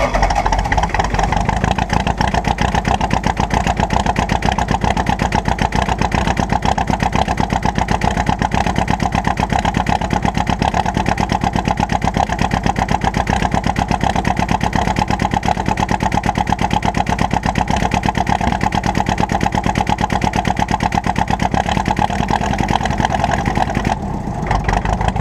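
John Deere 2010 diesel tractor engine being started by jumping the starter solenoid with the glow plugs held on, giving a loud, even, rapid chugging throughout. Its higher sound drops away about a second before the end.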